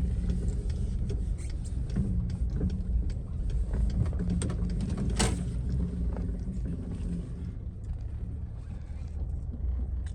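A car driving, with a steady low engine and road rumble and scattered light clicks and knocks; one sharper knock comes about halfway through.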